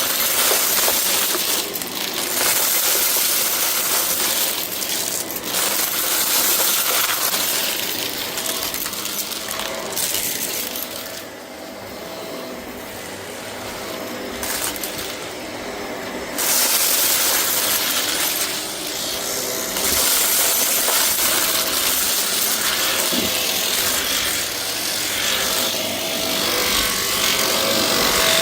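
Vacuum cleaner running with a steady motor hum, sucking a debris mix off a rug, small hard bits rattling and clinking as they are picked up. It drops quieter for a few seconds in the middle, then comes back to full strength.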